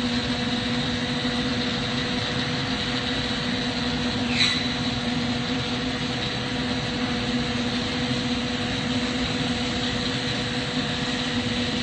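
Steady hiss and hum of flameworking at an oxygen-propane torch, with a constant mechanical hum underneath. About four and a half seconds in there is one brief sharp chirp.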